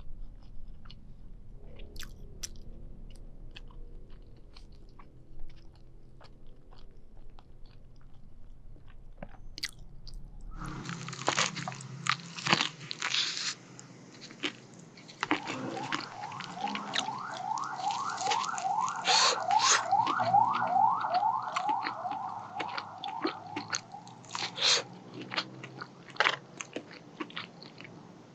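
Close-miked mouth sounds of biting and chewing crispy McDonald's fried chicken: soft chewing at first, then loud crackling crunches of the breaded skin from about ten seconds in, settling into steady crunchy chewing about twice a second.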